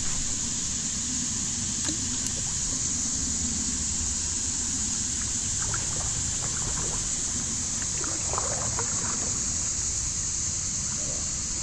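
Wind rumble on the microphone and water lapping against a kayak, over a steady high hiss, with a few faint small clicks and scrapes in the middle.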